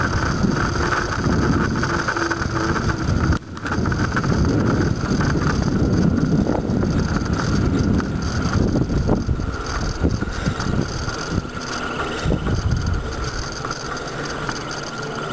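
Riding noise of a moving bicycle on a road, with wind rumbling on the microphone; it drops out briefly about three and a half seconds in.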